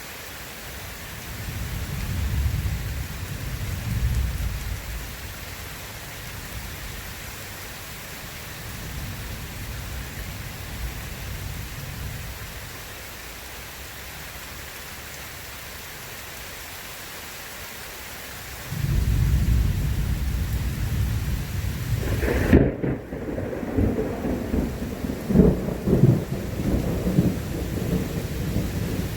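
Steady heavy rain with thunder rumbling low in the first few seconds and again faintly a little later. About two-thirds of the way in a much louder thunderclap breaks, and crackling, peaking rumbles run on under the rain.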